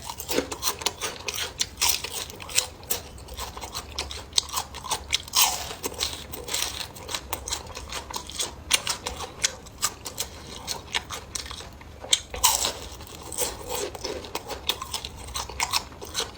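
Close-up crunching and chewing of crispy deep-fried small yellow croaker, a dense run of irregular crisp crackles with each bite.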